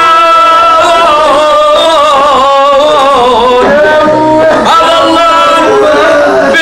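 A man's voice singing a mournful Iraqi lament (nai) in long, drawn-out melismatic phrases with a wavering pitch, one long phrase and then a second beginning about halfway through.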